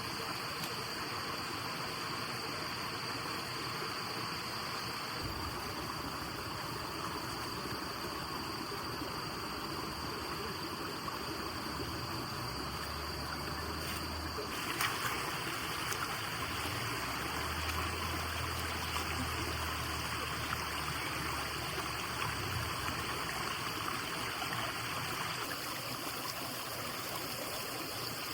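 Steady rushing of running water. A faint low hum comes and goes in the middle, and there is a single click about halfway through.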